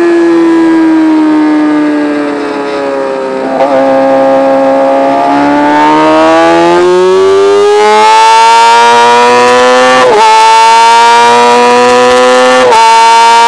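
Motorcycle engine heard from on board. Its pitch falls as the bike slows into a corner, breaks briefly a few seconds in, then climbs steadily as it accelerates out, with two quick breaks for upshifts near the end.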